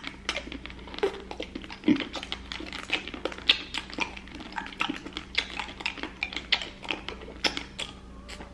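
A person chewing a crunchy snack, with irregular crisp crunches several times a second.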